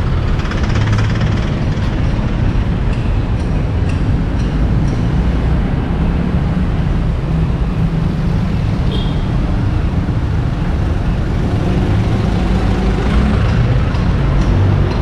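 Road traffic passing close by: vehicle engines and tyres making a continuous low rumble.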